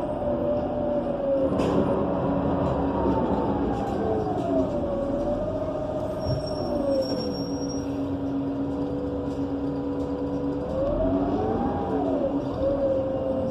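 Interior of a Gillig BRT Plus transit bus running on its Cummins Westport ISL G natural-gas engine and Allison automatic transmission, with a drivetrain whine whose pitch rises and falls as the bus changes speed. A sharp click comes about two seconds in.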